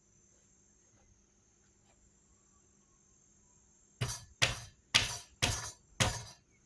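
Five sharp knocks in quick succession, about two a second, starting about four seconds in after a few seconds of faint background.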